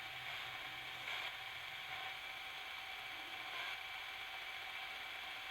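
Radio spirit box sweeping through stations, giving a steady, choppy static hiss.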